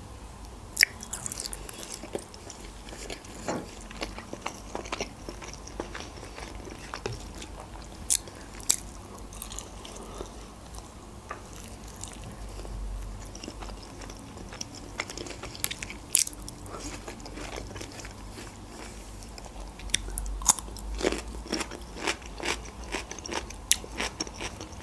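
A person chewing and biting into pieces of grilled rotisserie chicken close to the microphone: soft mouth sounds broken by many short, sharp clicks and crunches, with a busier run of them about twenty seconds in.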